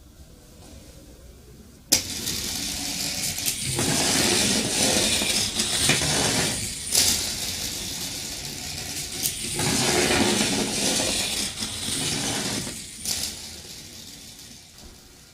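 A homemade magnet train, an AA battery with magnets on its ends, clicks into a coil of bare copper wire and rattles and scrapes along the coil. The rattle swells twice as it runs, then fades out.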